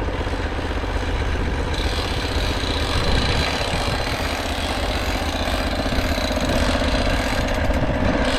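Petrol engine of a sawmill running steadily while milling an oak log.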